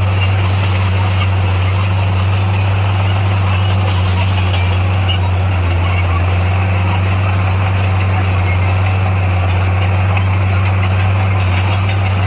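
Diesel engine of heavy earthmoving machinery running at a steady speed, a deep, even drone that does not change.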